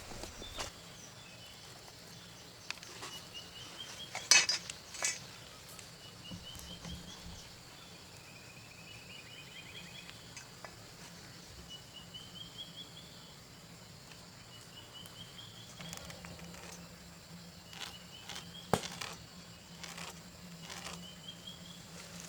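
A bird repeating a short, rising trilled call every second or two against a quiet forest background, with a few sharp clicks, the loudest about four seconds in and again near the end.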